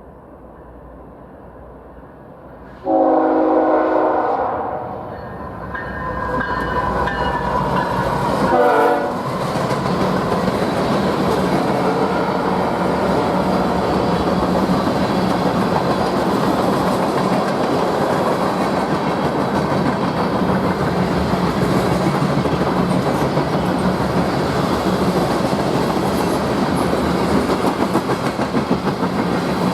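A diesel freight locomotive's five-chime air horn blasts suddenly about three seconds in and sounds again more faintly until about nine seconds. The train then rolls past at the crossing, with a steady rumble of engine and wheels on the rails.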